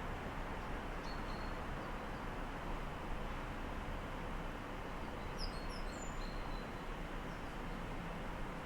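Steady, distant city traffic noise heard through an open window, with a few short bird chirps over it: one about a second in and a small quick cluster about five and a half seconds in.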